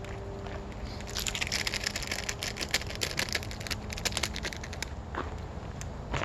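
Bag of peanuts crinkling and crackling as it is handled, a dense run of sharp rustles for about four seconds starting a second in.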